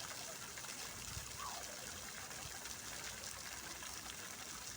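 Fountain water splashing and falling steadily in an even hiss of spray.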